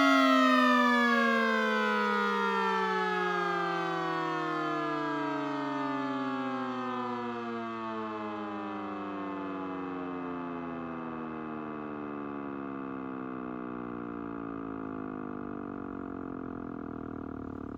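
Three electric warning sirens, a Darley Model 2 and Federal Signal Model EG and Model 28, winding down together after a run. Their overlapping pitches fall slowly and steadily as the rotors coast down, and the sound fades gradually.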